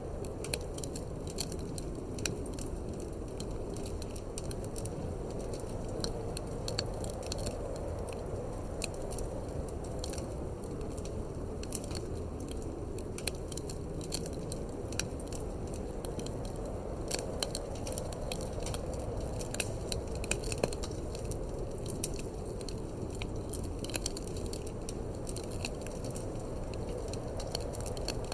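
Wood fire crackling in a fireplace, with frequent irregular sharp pops and snaps, over a steady low rush of wind.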